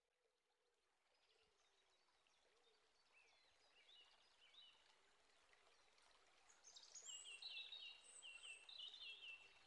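Faint birdsong fading in: scattered short chirps, then a louder run of quick repeated high notes over the last few seconds.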